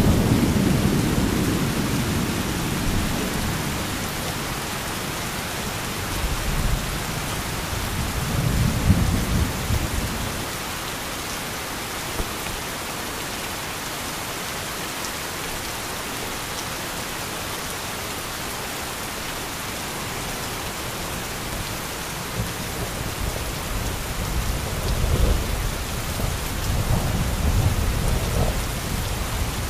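Heavy rain falling steadily, with low rolling thunder. One rumble dies away over the first few seconds, another comes about eight to ten seconds in, and more rumbling builds near the end.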